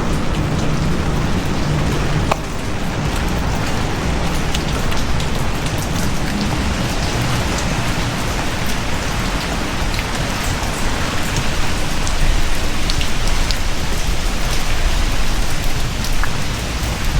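Heavy rain pouring steadily, with scattered sharp ticks of individual drops striking close by. A low rumble underneath fades out about two seconds in.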